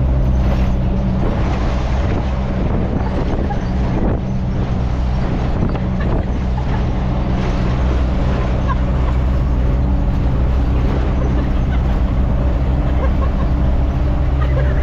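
Truck engine droning at a steady, unchanging pitch, with continuous road and wind noise, as the truck cruises along.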